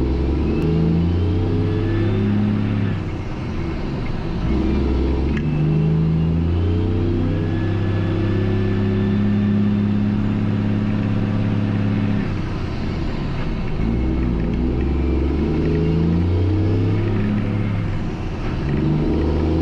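Mack truck's diesel engine running under load, its note dropping and climbing in steps several times, as with gear changes.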